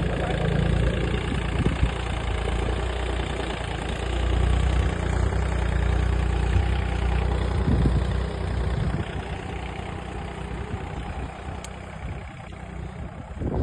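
VST 925 DI 25 hp tractor's diesel engine running steadily, quieter from about nine seconds in.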